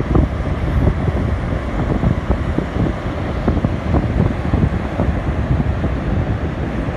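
Strong wind buffeting the microphone: a loud, low, continuous rumble with irregular gusty thumps throughout.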